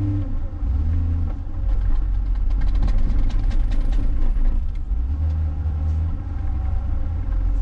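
John Deere 544K wheel loader's diesel engine running under work, its pitch going up and down with the throttle. A run of clattering knocks comes in the middle.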